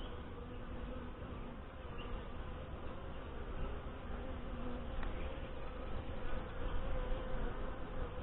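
A colony of Saskatraz honeybees buzzing around an open hive during a frame-by-frame inspection: a steady, even hum.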